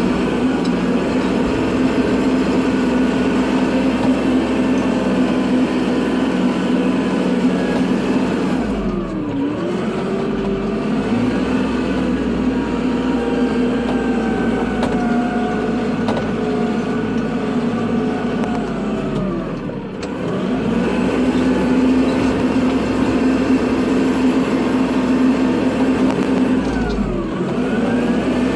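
Kubota tractor's diesel engine running steadily while plowing snow. Its pitch dips sharply and climbs back three times, about 9, 20 and 27 seconds in.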